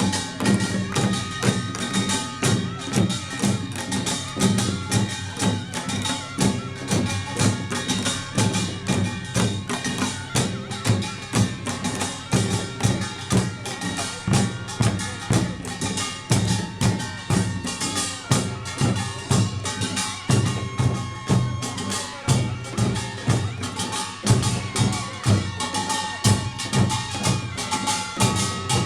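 Korean pungmul farmers' band playing Jeolla Jwado-style percussion: kkwaenggwari small gongs clanging over janggu and buk drums in a steady, driving beat of about two strokes a second.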